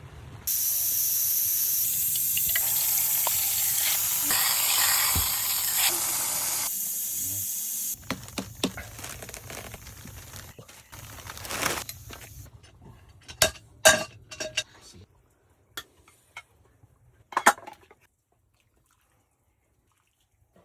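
Pressure cooker venting steam in a loud, steady hiss that starts abruptly and cuts off after about seven seconds, followed by a series of knocks and clatters.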